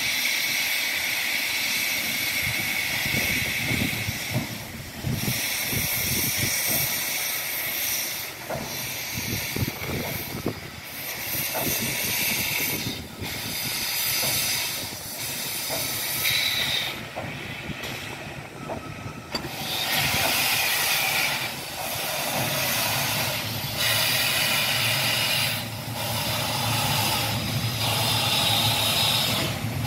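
MÁV class 424 steam locomotive letting off steam: loud hissing that breaks off and resumes every second or two. In the second half the hiss comes in a regular beat of about one blast every two seconds, with a low rumble under it.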